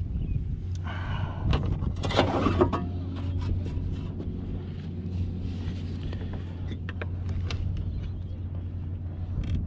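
Scattered clicks and knocks of handling aboard a kayak over a steady low rumble, with a brief louder rustle about two seconds in.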